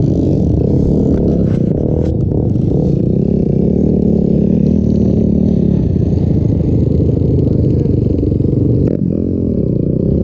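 Off-road vehicle engine running under throttle, its pitch rising and falling as the revs change, with a few clattering knocks in the first couple of seconds. The revs drop briefly about nine seconds in, then climb again.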